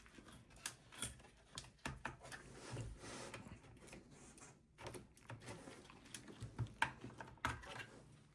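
Hands working on the inside of a slim desktop PC: irregular light clicks and taps of small plastic and metal parts being handled, with a scratchier stretch around three seconds in.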